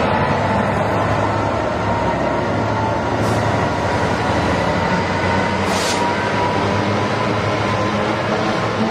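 A British Rail Class 66 diesel freight locomotive's two-stroke V12 engine running as it passes and pulls away, followed by its cement tank wagons rolling by on the rails. The sound is loud and steady throughout, with two short hisses about three and six seconds in.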